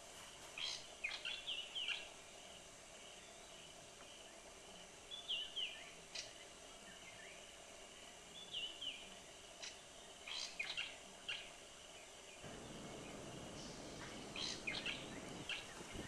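Birds chirping: short quick calls, some dropping in pitch, in clusters every few seconds over a faint steady background. A low noise comes in about twelve seconds in.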